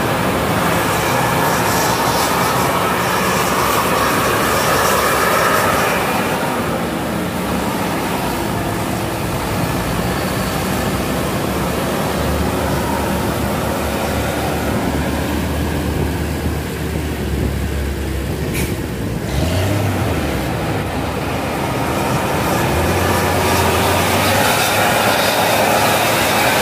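A moving vehicle running with a steady, loud rumble and faint high tones, and a low hum that comes and goes in the second half.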